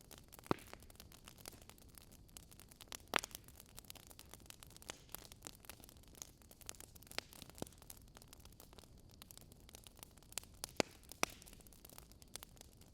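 Wood fire crackling in a fireplace: irregular small pops and snaps over a faint hiss, with a few louder pops about half a second, three seconds and eleven seconds in.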